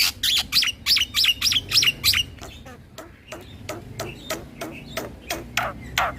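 Black-winged starling (jalak putih) singing: a quick run of loud, short chirps, about four or five a second, for the first two seconds, then softer, more scattered short notes.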